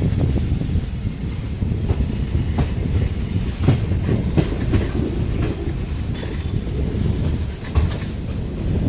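Passenger train coaches running along the track: a steady low rumble of wheels on rails, with scattered clicks and knocks from the wheels.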